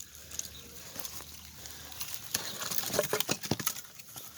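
Footsteps crunching and knocking on loose logs and sticks while crossing a log pile, with wood shifting and clattering underfoot. The knocks are sparse at first, then busier and louder from a little past two seconds to about three and a half seconds in.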